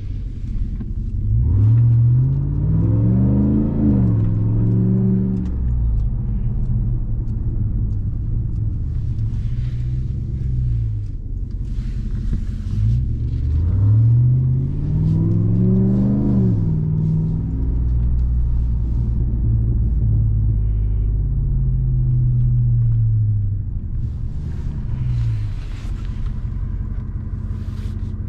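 The supercharged 6.2-litre Hemi V8 of a 2021 Ram 1500 TRX running under way. It pulls hard twice, once early and once about halfway, its pitch climbing and then falling back each time, with a steady low drone in between.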